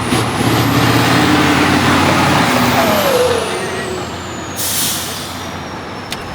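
Heavy off-road truck engine pulling hard, then dropping in pitch as it eases off, with a high whine above it. A short hiss of released compressed air comes near the end.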